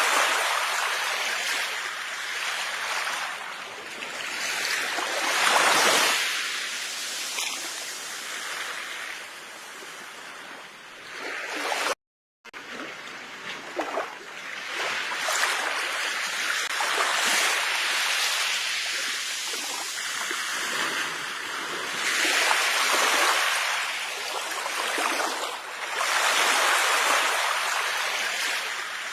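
Sea waves washing onto a shore, the surf swelling and falling back every few seconds. The sound cuts out to silence for a moment about twelve seconds in.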